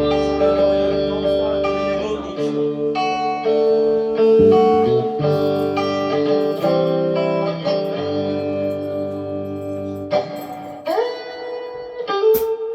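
Guitar playing sustained notes and chords, with a low bass line under it for the first couple of seconds; about eleven seconds in, a note slides upward in pitch.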